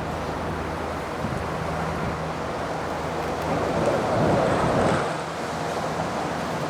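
Steady rumble of distant jet aircraft engines mixed with wind on the microphone, swelling briefly about four seconds in.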